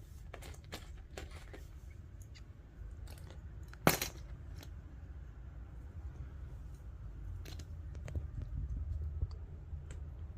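Plastic Lego pieces being handled and pressed together: scattered small clicks, with one sharp, louder click about four seconds in, over a low steady rumble.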